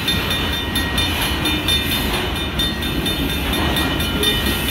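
Freight train of autorack and box cars rolling slowly past: steady rumble and clatter of steel wheels on rail. A grade-crossing warning bell dings a few times a second over it.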